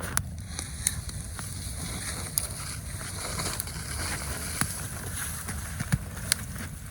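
Steady low wind rumble with scattered sharp pops and crackles from a campfire, about one every second.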